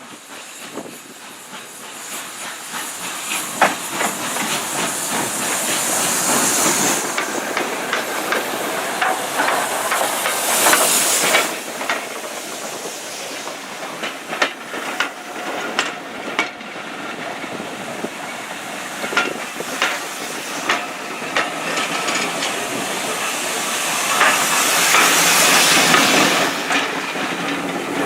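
Steam locomotive with its train, steam hissing loudly in three stretches, with scattered sharp clicks and knocks of the running gear or wheels on the rails.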